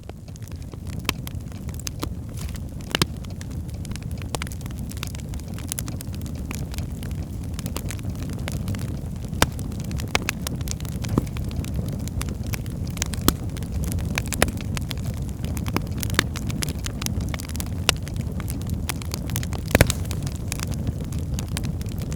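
Birchwood fire burning in a fireplace: a steady low rumble of flames with constant fine crackling and a few sharper, louder pops of the burning wood.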